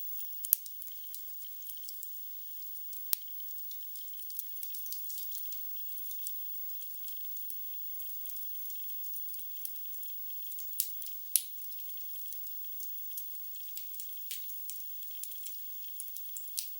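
Wood fire in a fireplace crackling: a soft steady hiss with many sharp, irregular pops and snaps, a few of them louder than the rest.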